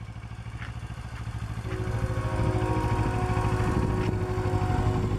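Kawasaki Ninja 650R parallel-twin motorcycle engine running, its low pulsing note growing louder over the first two seconds as the rider moves off from a stop. A steady higher hum joins about two seconds in and holds.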